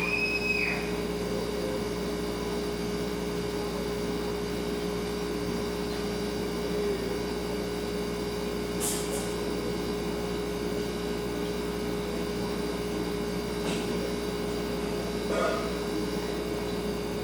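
Refrigerator running with a steady hum: a low drone under a constant mid-pitched tone. A few faint ticks come around the middle and near the end.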